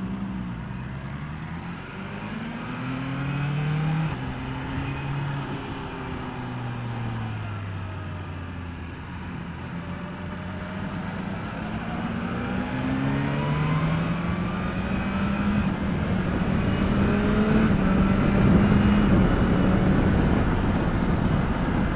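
BMW S1000R's inline-four engine on its stock exhaust, heard from the rider's seat as the bike is ridden: the engine note rises, drops and rises again several times through the gears, then holds at speed. Wind rush grows louder as the bike speeds up.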